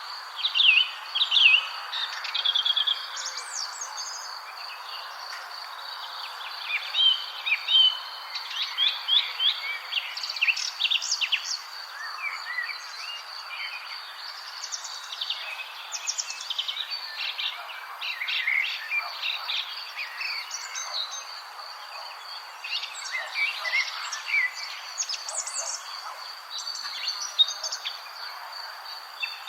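Several birds chirping and singing in short, varied phrases, over a steady high-pitched insect drone and a soft background hiss.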